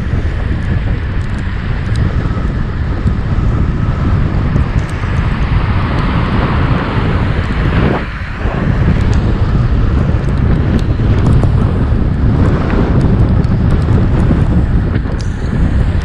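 Wind rumbling hard on the microphone of a moving bicycle ride, with road traffic swelling past.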